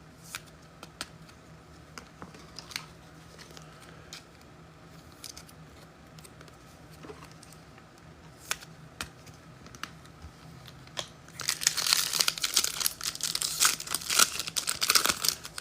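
Light handling with scattered small clicks, then from about eleven seconds in a loud, dense crinkling and tearing of a trading-card pack's wrapper or plastic sleeve being handled.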